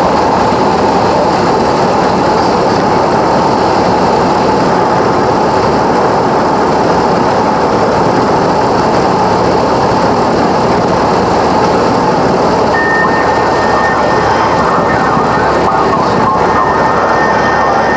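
Cessna 172 cabin noise: the four-cylinder piston engine, propeller and airflow running steadily. About 13 seconds in, a thin, steady high tone joins it and holds to the end.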